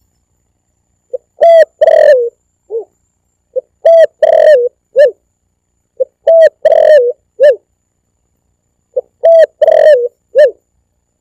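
Spotted dove (tekukur) song, as used in a lure recording: four repeated phrases about every three seconds, each a short soft note, two loud coos and a lower closing note, with dead silence between phrases.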